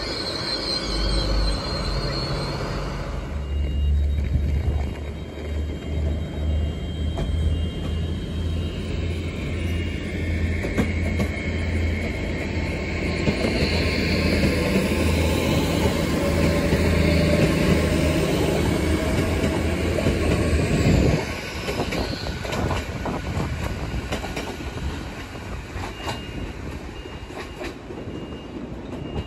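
Hitachi bi-mode passenger train running on its diesel engines as it moves off, a deep steady engine drone with a slowly rising whine above it. The engine sound drops sharply about three-quarters of the way through, leaving fainter wheel-on-rail rumble.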